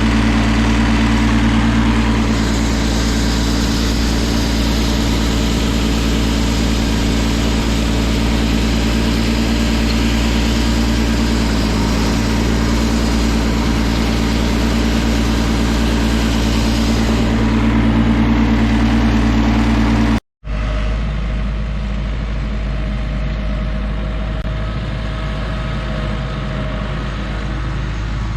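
Tractor engine running steadily under way. About twenty seconds in the sound cuts out for a moment and comes back as a quieter, lower engine sound.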